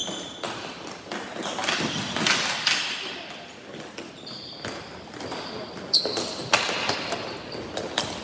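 Ball hockey play: a run of sharp knocks from sticks and the ball striking, the loudest two near the end, with a few brief high squeaks along the way.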